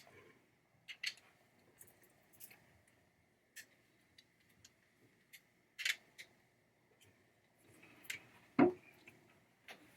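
Scattered small clicks and taps of screws, nylock nuts and a hand tool being handled while fasteners come off a pinball trap door coil bracket, with a duller knock at about eight and a half seconds.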